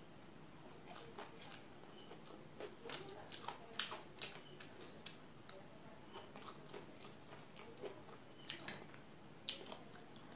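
Close, faint chewing and eating sounds of a person eating momos and chowmein noodles with a fork and spoon, with scattered short clicks, several close together about three to four seconds in and again near the end.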